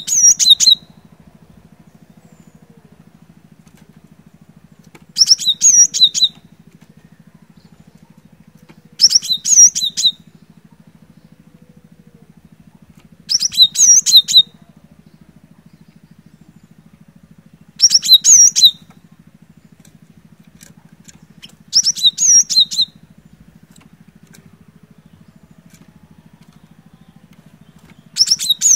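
Cinereous tit (glatik batu) singing: short phrases of a few quick, high, bouncing notes, each about a second long, repeated every four to six seconds. A faint steady low hum runs underneath.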